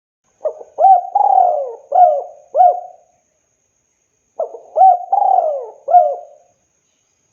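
Spotted dove (tekukur) cooing: two song phrases, one starting about half a second in and one about four and a half seconds in. Each phrase is a few short coos around one longer, falling coo.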